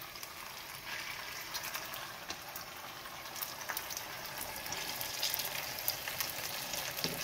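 Skewered Korean rice cakes (tteok) frying in shallow oil in a pan: a steady, gentle sizzle with scattered small pops and crackles.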